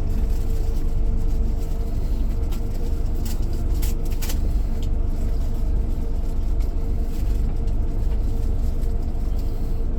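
Cabin noise of a Scania K410IB coach under way: a steady low rumble of engine and road, with a thin steady hum and a few faint ticks about three to four seconds in.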